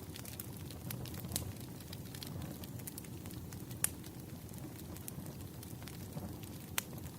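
Bonfire crackling: a steady low rumble of burning with scattered sharp pops, the loudest about four seconds in and another near the end.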